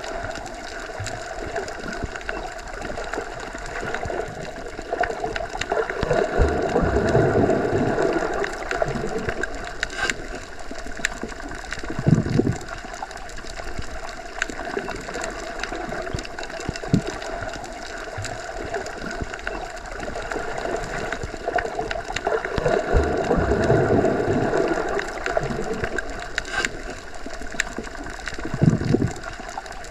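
Underwater ambience: a muffled, steady rush of water heard as if submerged, swelling up and easing off twice, with two short low thuds and a few faint clicks.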